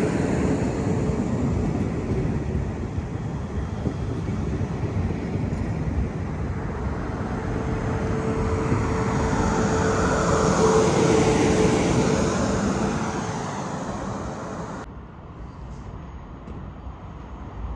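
A train running past, a steady rumble with a faint hum that builds to its loudest about ten to twelve seconds in and then fades. About fifteen seconds in it drops abruptly to a quieter background.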